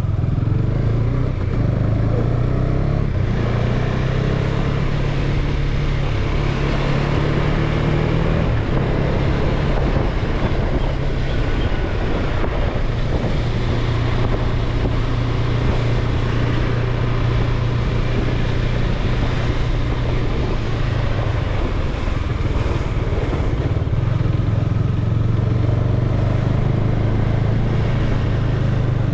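Motorcycle engine running steadily while riding, over constant wind and road noise; the engine note steps up and down a few times as the speed changes.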